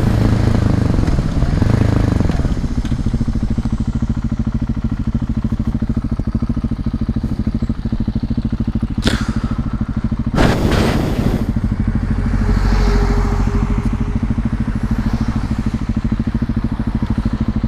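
Husqvarna 701 Supermoto's single-cylinder engine running steadily through an SC-Project slip-on silencer, with an even, fast pulse. Two short rushes of noise come about nine and ten and a half seconds in.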